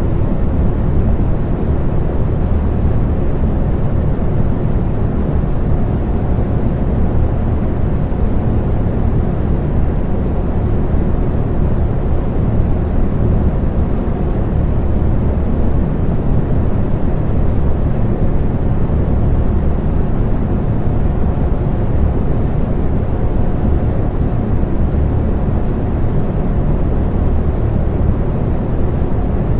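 Electric fan running with a steady low whoosh of moving air and a faint steady hum.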